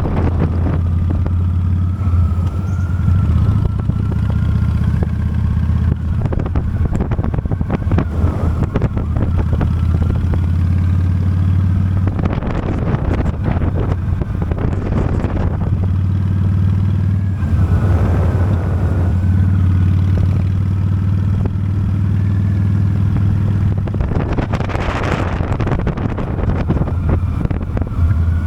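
Honda Steed motorcycle running steadily at cruising speed, a constant low engine hum under wind noise on the microphone. Louder rushing swells come several times.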